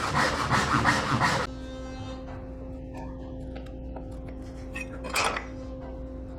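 Hand saw cutting through walnut in quick, rhythmic strokes that stop abruptly about a second and a half in. A low steady hum follows, with a few light clicks and a brief scrape of a tool on wood around five seconds in.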